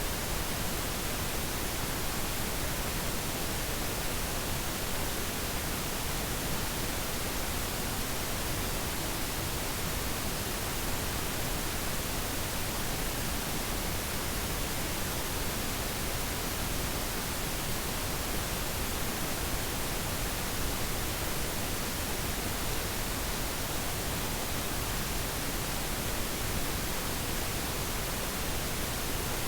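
Steady, unchanging static hiss, even from low to high pitches, with no other sound in it.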